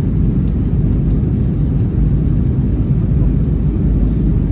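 Airbus A321neo heard from inside the passenger cabin: a loud, steady low rumble of engines and airflow, with a few faint clicks.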